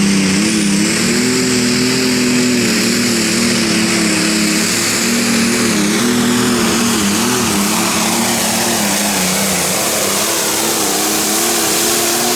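Pulling tractor's engine running hard under load down the track, its pitch holding nearly steady with brief wavers about six to seven seconds in, and a high whine above it.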